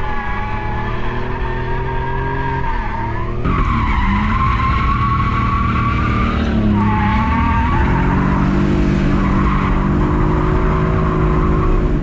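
Drift car engine held at high revs with tyres squealing through a slide. The revs dip and climb back about three and a half seconds in, and again around seven seconds.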